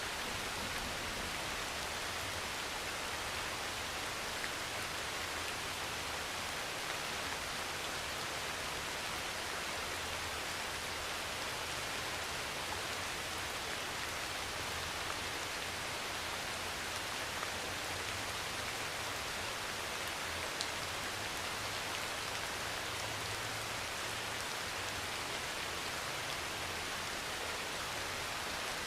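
Steady heavy rain drumming on a metal roof, an even unbroken hiss with a few sharper single drop ticks.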